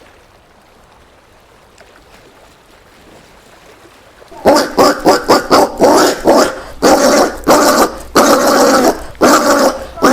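Collared peccary calls: after a quiet stretch, a fast run of short, loud barking grunts begins about four seconds in, two or three a second.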